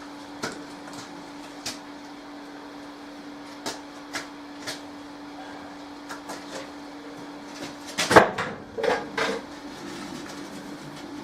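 Scattered knocks and thuds from a heavy wooden anvil stump being shifted and manhandled into place, over a steady low hum. The loudest knocks come in a cluster about 8 seconds in, with a few more a second later.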